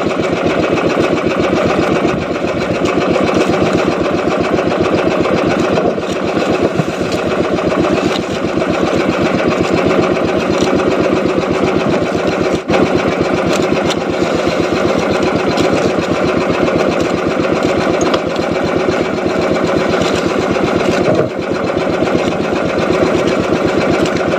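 Small boat engine running steadily at an even speed, a fast, constant putter with no change in pitch.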